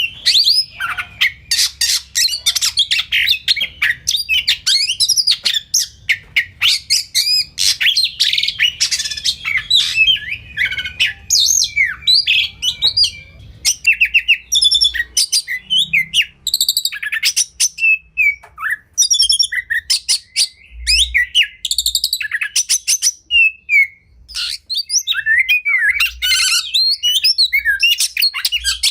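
Oriental magpie-robin (kacer) singing a varied song of rapid whistles, chirps and chattering trills. The phrases come thick and fast for the first half, then break into shorter bursts with brief pauses.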